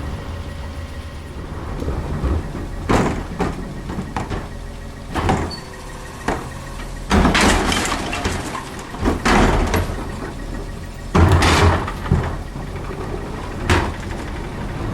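Garbage truck running at idle with a steady low hum, broken by about six short, loud noisy bursts from its collection work at the hopper.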